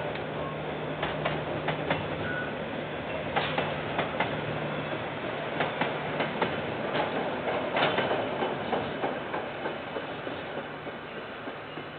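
KiwiRail freight train's container wagons rolling past, wheels clacking irregularly over the rail joints. The sound thins out and fades over the last few seconds as the end of the train goes by.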